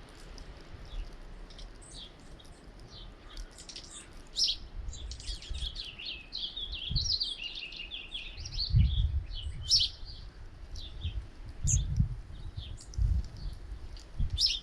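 A flock of small birds chirping and twittering, with many short high calls throughout and a busier run of twittering in the middle. A few low rumbles, like wind gusts on the microphone, come about 9, 12 and 13 seconds in.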